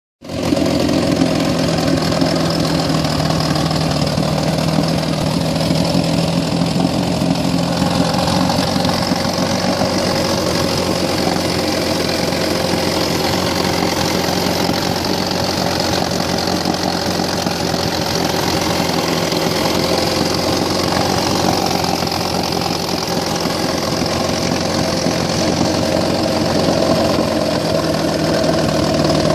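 1960 Elgin 18 hp two-stroke outboard motor running steadily after repair, with its points set and magneto cleaned; it runs like a new one.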